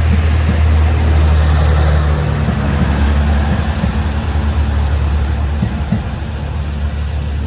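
The diesel engine of an HB-E300 series hybrid train running loud and steady under power as the train pulls away, with a deep hum that eases slightly toward the end.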